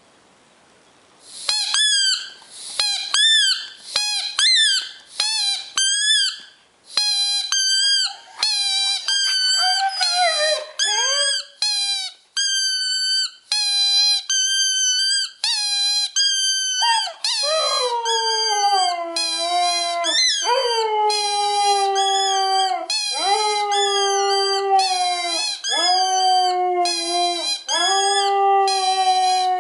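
Dogs howling. First comes a run of short, high yips and whines. From about halfway, long, lower howls slide down in pitch and then hold steady, with a higher-pitched dog howling over them at the same time.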